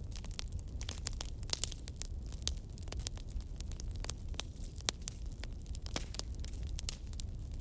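Wood bonfire crackling: irregular sharp pops and snaps, a few louder than the rest, over a steady low rumble.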